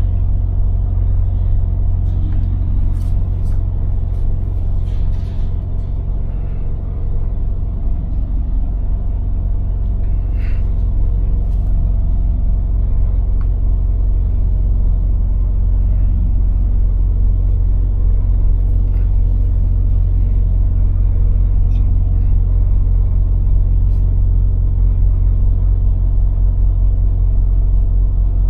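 Scania lorry's diesel engine and road noise heard from inside the cab, a steady low drone while driving.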